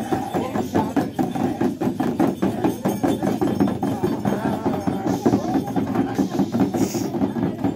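Thami shaman's large round frame drum beaten in rapid, even strokes, with voices over it.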